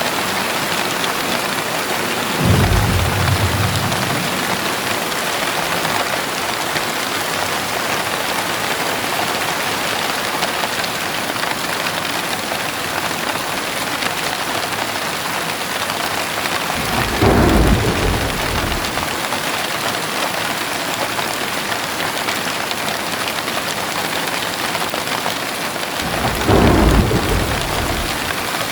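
Heavy rain pouring steadily, with three low rolls of thunder, each lasting a second or two: the first about two seconds in, the second around the middle and the third near the end.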